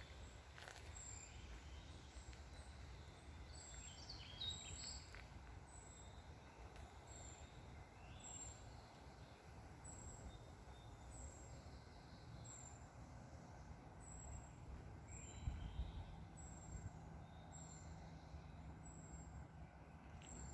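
Faint birdsong: a thin, high note repeating about twice a second, with a few scattered calls, over a low, steady rumble.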